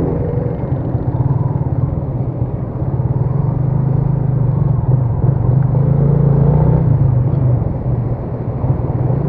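Motorcycle engine running steadily while riding, with wind and road noise over the microphone; the engine note rises and falls slightly.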